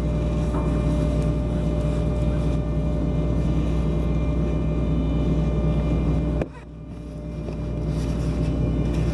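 Rescue boat's engine running steadily, with a sudden break about six and a half seconds in, after which the same engine sound builds back up.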